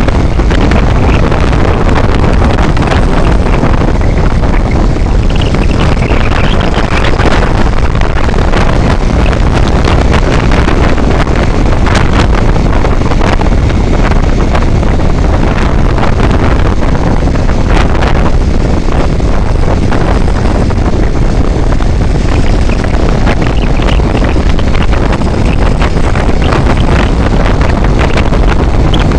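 Wind rushing over the microphone of a moving vehicle, loud and steady, with vehicle noise underneath.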